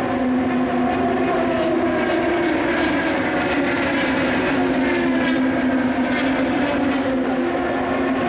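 Steady engine drone with a low hum and wavering overtones, unbroken and without rising or falling pitch.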